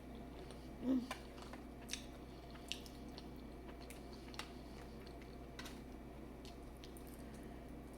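A person eating: soft chewing with scattered small sharp clicks and ticks, the loudest about a second in. A steady low hum runs underneath.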